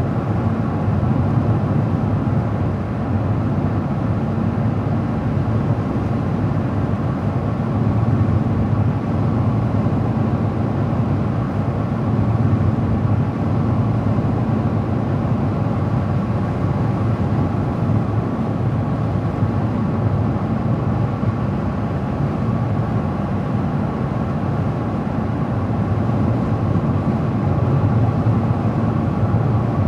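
Car driving steadily along the road: an even low drone of tyres and engine, with no sudden events.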